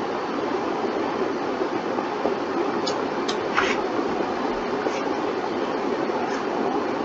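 Steady rushing background noise, with a few short clicks about three to four seconds in.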